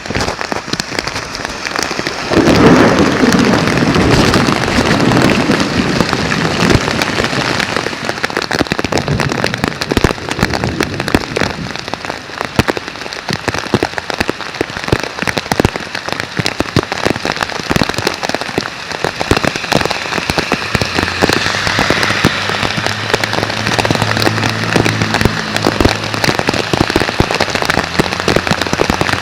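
Heavy thunderstorm rain falling steadily, a dense patter of drop impacts, swelling louder for a few seconds near the start. A low steady hum comes in about two-thirds of the way through.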